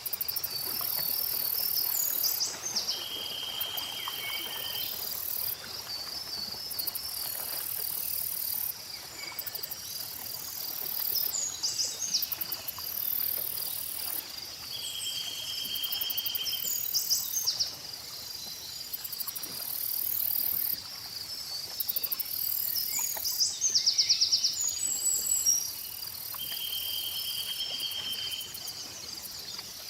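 Layered nature ambience: a steady chorus of crickets and other insects chirping, with a higher buzzing insect trill that switches on and off every few seconds. Short bird calls come through the chorus, and a held trill of about a second recurs three times, roughly every twelve seconds.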